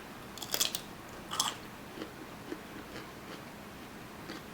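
Biting into a crisp cucumber: two loud crunches in the first second and a half, then quieter chewing.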